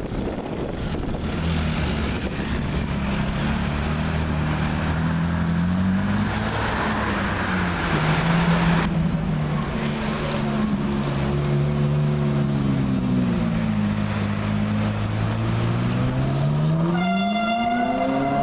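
Ferrari 458 Italia's 4.5-litre V8 running at low revs, its pitch drifting up and down as the car moves slowly. Near the end the engine revs up with a steeply rising note.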